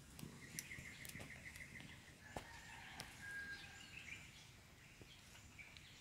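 Faint bird calls: a quick trill of repeated high notes early on, then a short held whistle, over faint outdoor background noise with a few scattered clicks.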